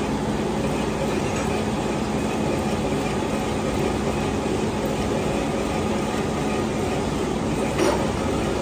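Workshop machinery running steadily with a low hum, and a single short knock near the end.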